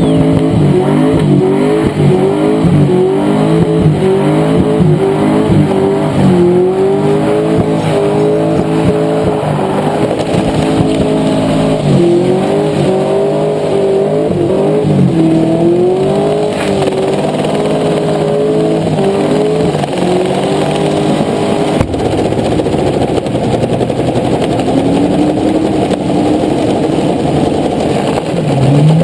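LS1 V8 engine revving hard through a long burnout, held high in the revs with the pitch wavering up and down as the rear tyres spin. The revs settle lower in the last few seconds.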